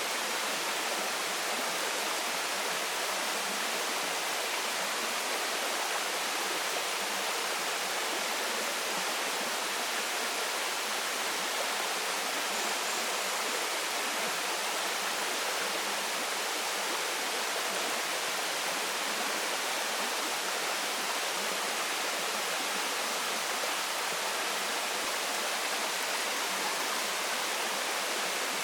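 Waterfall splashing into a stream: a steady, even rushing of falling water, with no breaks or changes.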